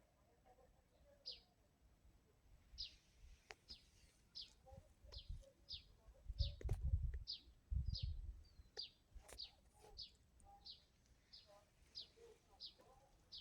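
A songbird repeating one short, high chirp about every three-quarters of a second. Midway there is a low rumble lasting a couple of seconds, along with a few faint clicks.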